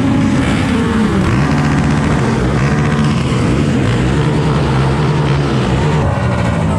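Motor vehicle engines running and revving, with several engine notes rising and falling over one another.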